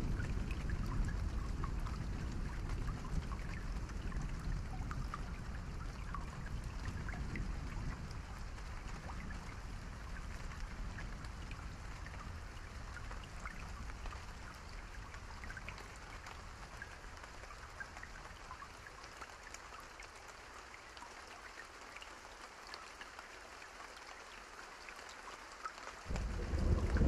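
Steady rain with many small drop ticks pattering on a surface. A low rumble dies away over the first part. Near the end, a loud, deep rumble of thunder sets in suddenly.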